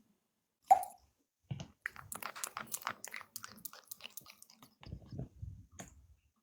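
Crunchy chewing with rapid irregular clicks, close to the microphone. It follows a single short, sharp sound just under a second in.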